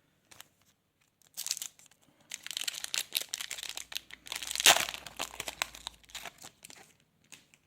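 A trading-card pack wrapper being torn open and crinkled: a run of crackling that starts about a second and a half in, with the loudest, sharpest tear a little past the middle.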